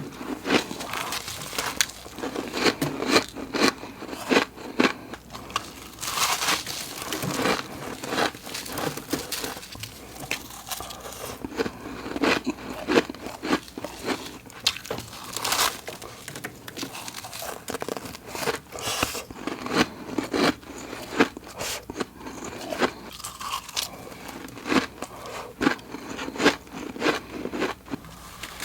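Close-miked crunching of flaky, crisp freezer frost from a humidified freezer being bitten off in big chunks and chewed, a dense run of irregular crackles and crunches.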